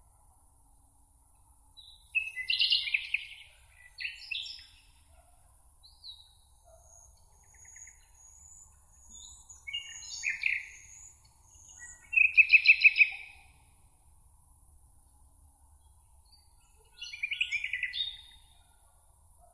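Songbirds singing in a meadow: short bright phrases with pauses between them, one of them a fast trill about two-thirds of the way in, with a few thin high notes in between over a faint steady hiss.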